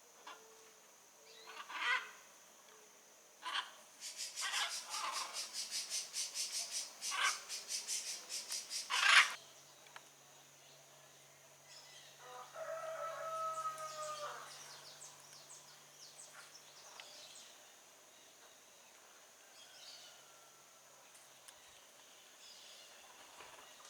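Birds calling: a few harsh squawks, then a rapid rasping rattle of about six notes a second for several seconds that ends in a loud squawk, then a longer pitched call. Fainter calls follow.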